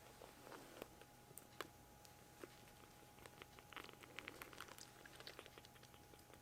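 Faint wet clicks and smacks of a kitten suckling milk, coming thickest between about three and a half and five and a half seconds in.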